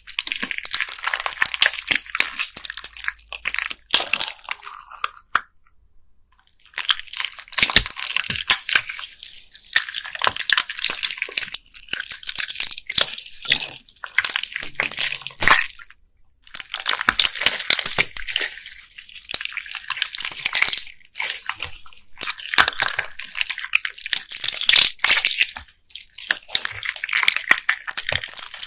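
Bead-filled slime being squeezed and pressed by hand, giving dense crackly clicking and popping. It comes in several bouts, with short breaks about five seconds in and about sixteen seconds in.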